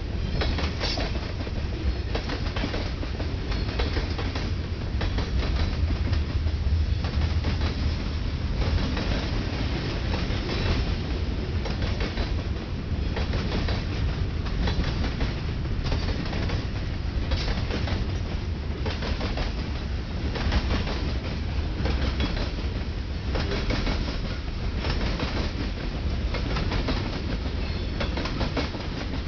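Freight cars of a Ferromex freight train rolling past close by: a steady low rumble with the repeated clack of wheels over rail joints.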